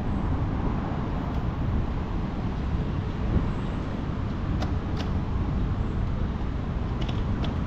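Steady city street traffic noise, a low continuous rumble of passing cars, with a few faint clicks a little past the middle and near the end.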